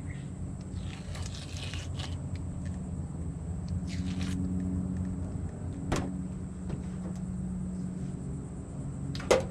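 Steady low motor hum, with scattered light scrapes and clicks and two sharp knocks near the end.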